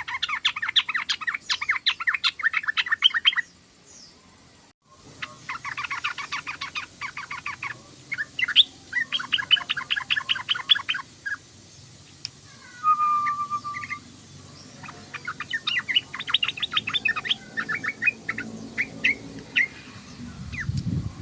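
Yellow-vented bulbul chattering: rapid trains of short bubbling notes in several bursts, with a brief break about four seconds in and a short whistled note around the middle.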